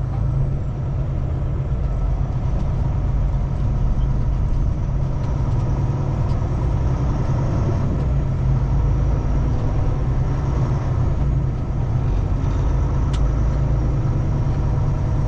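Kenworth T680 semi-truck's diesel engine running steadily with a low, even drone.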